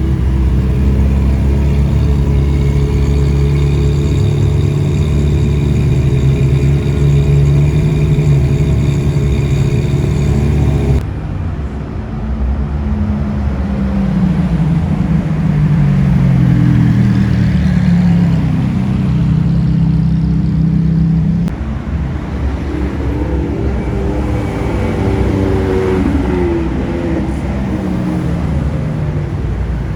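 Car engines: first one running steadily, then, after an abrupt change, an engine whose pitch rises and falls as it revs and accelerates, with another abrupt change to more rising and falling engine sound later on.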